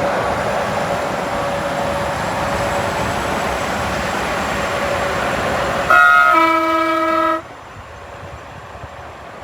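Steady traffic and engine noise, then about six seconds in a loud multi-note air horn blasts a held chord for about a second and a half and cuts off abruptly.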